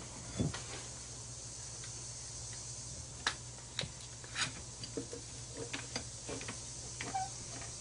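Scattered light clicks, taps and small rustles, about a dozen, from hands handling scrap metal and copper wire, over a steady low hum and hiss.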